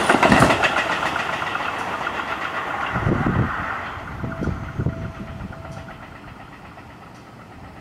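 Seibu 40000-series electric train running past and away, its wheels clicking over the rail joints at first, then its rumble fading steadily as it recedes. A faint steady tone sounds briefly midway.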